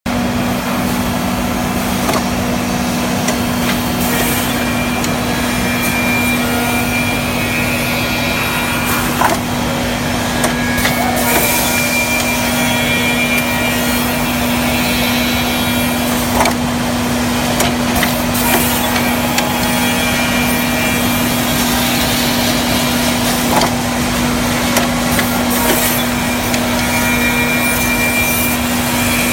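Bacci CNC double-end tenoner running: a steady machine hum with one constant tone, scattered knocks and clicks, and stretches of wood being cut.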